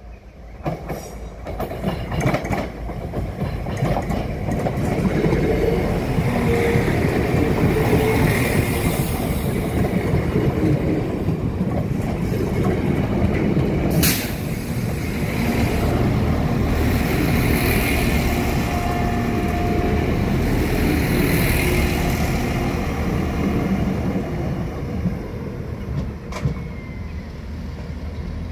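A Translink diesel multiple unit passing close by over a level crossing. The rumble of wheels and engine builds as it approaches, stays loud for most of the passage with a sharp clunk about halfway through, then eases as it moves away.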